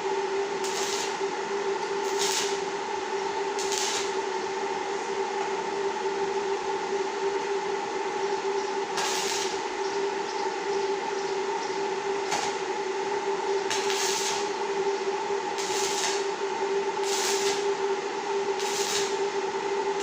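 A steady machine hum with two held tones over a hiss, broken by short bursts of higher hiss every second or two.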